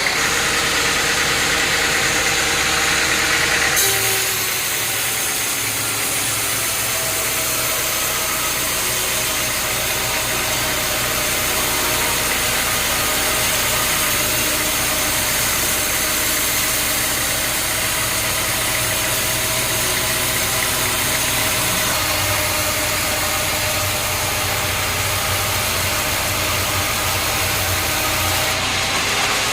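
Engine-driven sawmill machinery running steadily with a dense mechanical noise. The sound shifts about four seconds in and again around twenty-two seconds.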